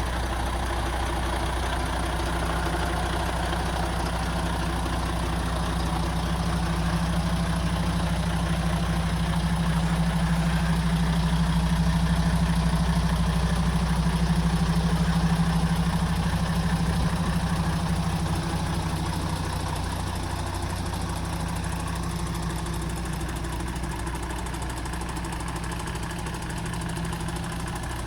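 MAN TGX 26.440 truck's diesel engine idling steadily, growing a little louder midway and then easing back.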